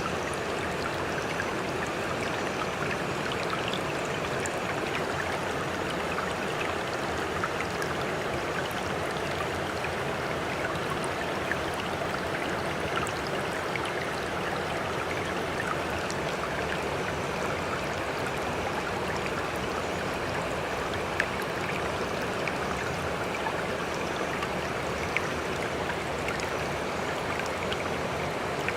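Steady, even rush of sea water with fine splashes and drips scattered through it, and no rise and fall of breaking waves. Two slightly sharper splashes stand out, about three quarters of the way in and near the end.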